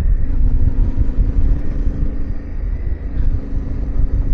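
Yamaha Ténéré 700's parallel-twin engine running steadily while the bike is ridden, under a heavy, uneven low rumble.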